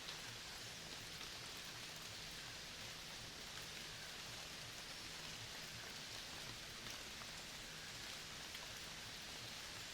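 Steady rainfall: an even hiss with scattered faint drop ticks and no change in level.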